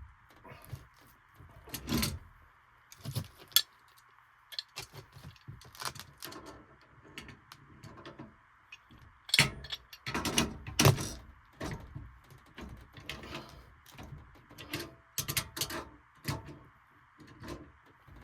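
Irregular clicks, knocks and light rattles, as of tools and metal parts being handled, over a faint steady hiss. The loudest cluster comes about two seconds in and again around the middle.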